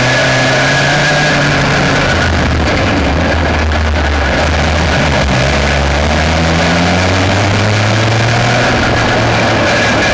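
Aixro Wankel rotary kart engine heard from on board the kart. Its pitch drops a couple of seconds in, then climbs again from about six seconds in as it picks up revs.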